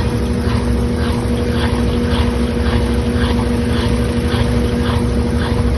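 Washing machine on its spin cycle: a steady motor hum over a low rumble, with a swish that comes round about twice a second as the drum turns.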